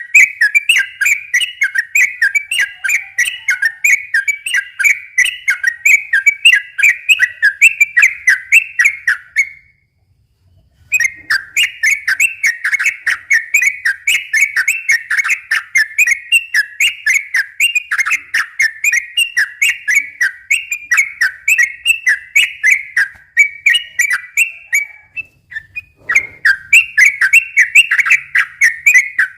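Sooty-headed bulbul (trucukan) singing a long, rapid run of whistled notes, about five a second. It breaks off for about a second a third of the way in, and briefly again near the end.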